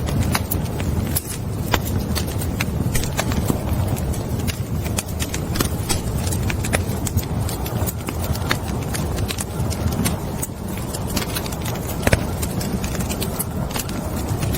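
Wood fire burning in a fireplace, crackling with frequent sharp, irregular pops over a steady low rumble of flames.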